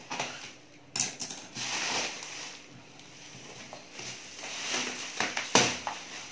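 Cardboard and plastic packaging being handled during an unboxing: rustling and scraping with several sharp knocks, the loudest about five and a half seconds in.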